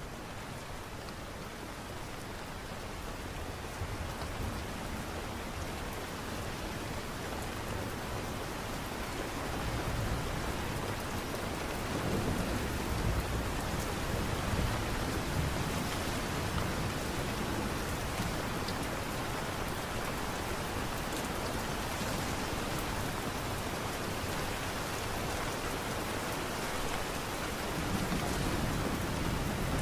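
Steady rain falling, an even hiss that builds up over the first ten seconds, with low rumbles swelling in and out, like distant thunder.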